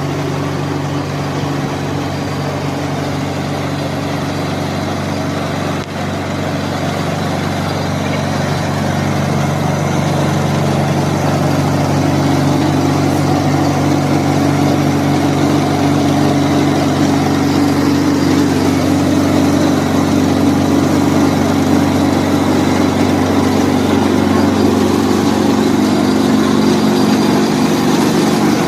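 Solar-powered rice mill running steadily, milling paddy: a continuous machine hum that grows gradually louder over the first dozen seconds, then holds.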